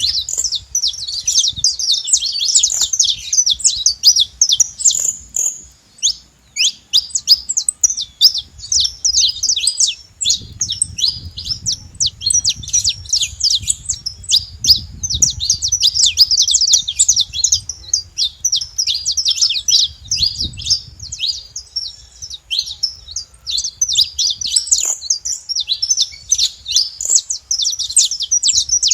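Saffron finch singing: a long run of rapid, high chirps that runs on almost without a break, pausing for about a second near 6 seconds in.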